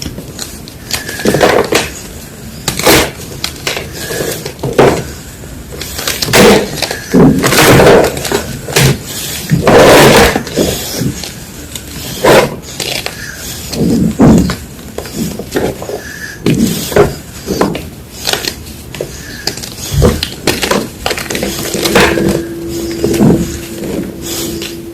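Reformed gym chalk being crushed and crumbled, a run of irregular dry crunches and cracks.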